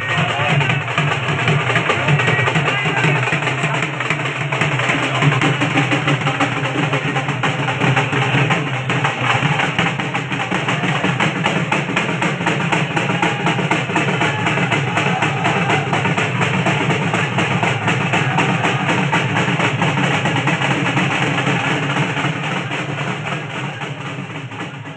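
Dhol and nagada drums beating fast and without a break, fading out near the end.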